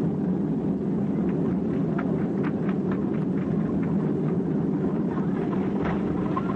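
Steady low rumble of a Boeing 767 airliner on approach to land, heard from inside the passenger cabin, with faint light rattles or clicks over it.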